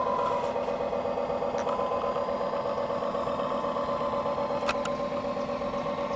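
Radio-controlled model tugboat's drive running steadily with a whine and a fine, rapid pulsing; the pitch dips slightly about half a second in and comes back up about a second and a half in. A single sharp click about four and a half seconds in.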